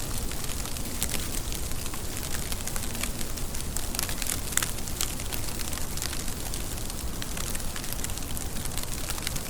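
Steady rain falling, with many small sharp drop hits scattered through it and one slightly louder hit about four and a half seconds in.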